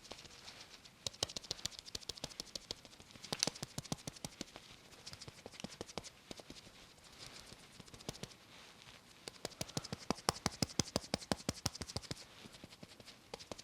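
Cushion-foundation puff being patted quickly against the face: rapid soft taps in two runs, a shorter one in the first few seconds and a denser, louder one in the second half.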